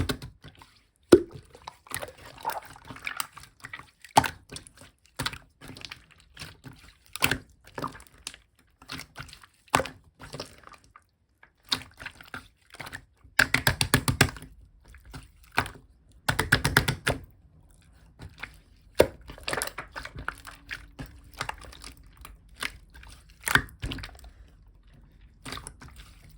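Clear slime being squished and pressed by hand: irregular wet clicks and pops, with two denser crackling runs in the middle.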